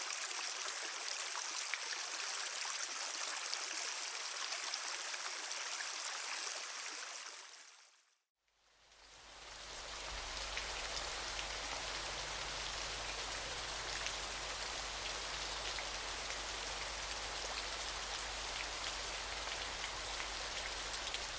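Steady rushing water, like a stream or rain, fades out about seven seconds in. After a moment of silence a second steady water ambience fades in, with a low steady hum beneath it.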